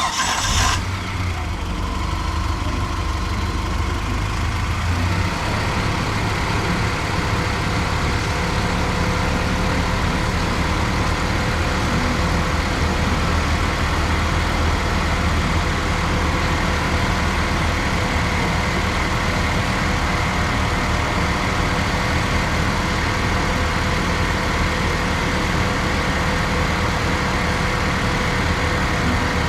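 Engine of a 2000 Mitsubishi 1.75-ton truck, just started, running at a steady idle.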